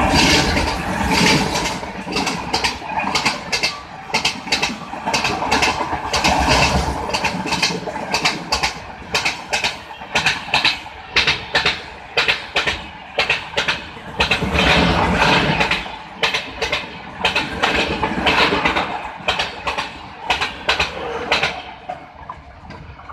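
Diesel-hauled express passenger train running past, its wheels clattering over rail joints in a rapid, irregular run of clacks. The sound fades away near the end as the train recedes.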